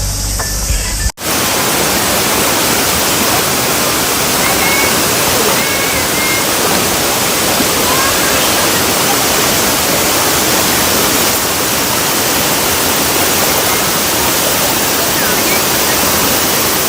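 Waterfall: a steady, loud rush of falling water that starts abruptly about a second in, after a cut.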